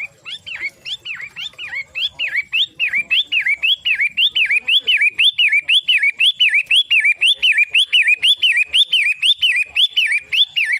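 Long-tailed shrike (pentet) calling a fast run of repeated notes, about three a second, each note sliding down and back up in pitch. The calling grows louder over the first couple of seconds, then holds steady.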